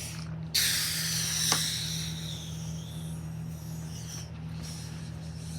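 R211 subway train standing with a steady low hum. About half a second in comes a sudden hiss of released air that fades over a couple of seconds, with a sharp click about a second and a half in.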